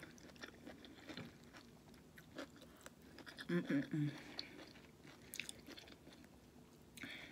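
A person chewing food close to the microphone, with soft, scattered mouth clicks and light crunches. A short hummed vocal sound comes about halfway through.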